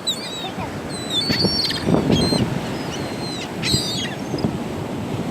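A flock of seagulls calling over and around each other: many short, high, overlapping cries with quick pitch slides, a few louder harsh calls about a second and a half in and near four seconds.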